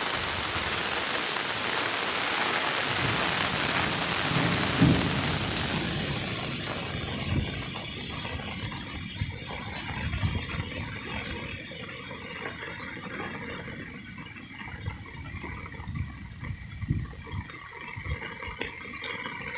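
Heavy rain falling, a dense hiss that thins out and grows quieter after about six seconds. Irregular low thuds come through it in the second half.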